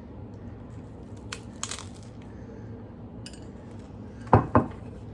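A person biting into and chewing a crisp, breaded chicken parm taco: a few faint crackles, then two loud crunchy bites about a quarter second apart near the end.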